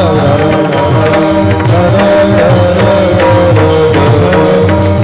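Warkari kirtan accompaniment: a harmonium melody over a held drone, with hand-drum strokes and small hand cymbals striking in a steady beat.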